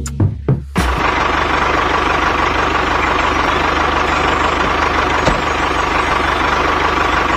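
Tractor engine running steadily with a rapid low chug, starting about a second in after a couple of short knocks.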